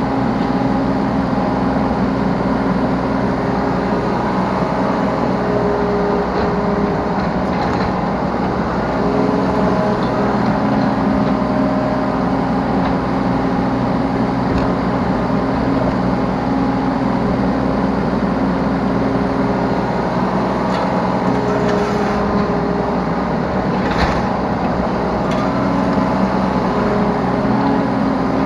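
Yanmar B3 Sigma 3-ton mini excavator's diesel engine running steadily under load, with a hydraulic whine that shifts in pitch as the controls are worked. Near the end, a single sharp knock.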